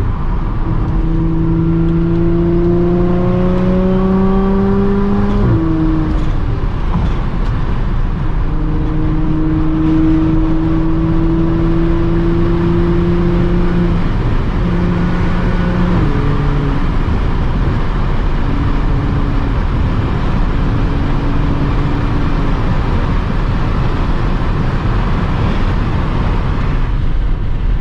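Audi S4 B8.5's supercharged 3.0-litre V6, running on test pipes through an AWE exhaust, pulling under acceleration. Its exhaust drone rises in pitch for a few seconds, drops at a shift about five seconds in, holds steady for a while, then drops again about sixteen seconds in and runs lower.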